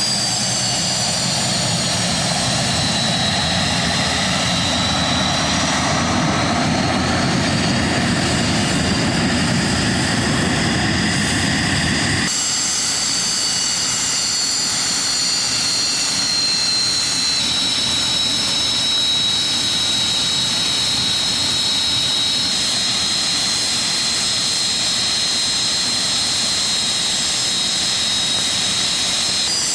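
Jet aircraft engine whine, its high pitch falling as the aircraft passes in the first dozen seconds. It changes abruptly to a steadier whine, with further sudden shifts later on.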